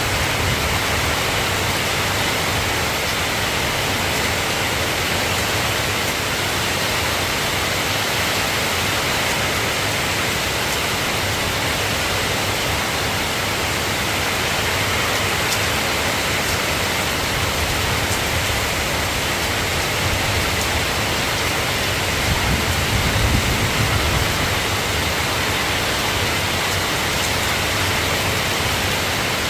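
Steady soft rain falling, an even hiss without a break. About three-quarters of the way through, a brief low rumble swells up and fades.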